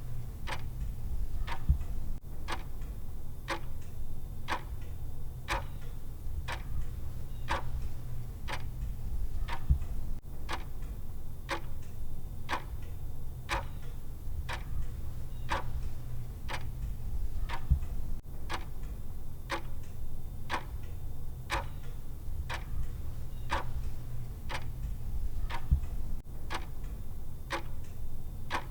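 Clock-style timer tick sound, one sharp tick about every second over a steady low hum. Roughly every eight seconds a beat lands with a slightly louder low knock.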